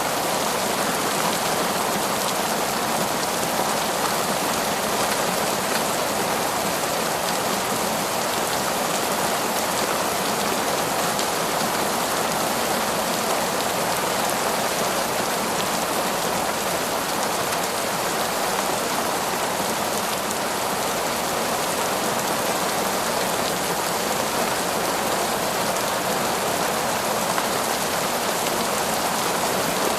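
Heavy torrential rain falling steadily, a dense even hiss with no breaks or changes.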